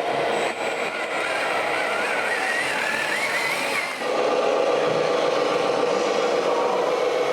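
Radio-controlled scale model vehicle running: a wavering whine climbs in pitch over the first few seconds, then gives way suddenly to a louder, steadier hum.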